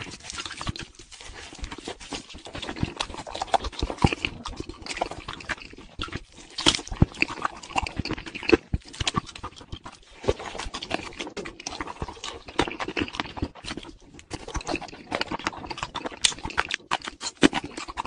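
Chewing and lip-smacking as a sauce-covered chicken wing is eaten: a dense, irregular run of smacks and crunches.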